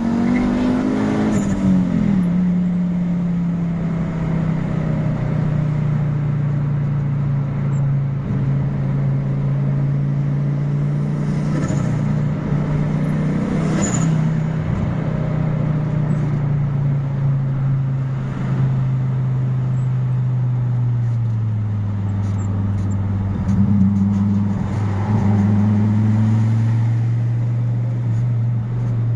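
Fiat Marea 2.0 20V turbocharged five-cylinder engine running under way, its note sinking slowly after a rev, then dropping lower about three-quarters through, with two brief rises in pitch near the end.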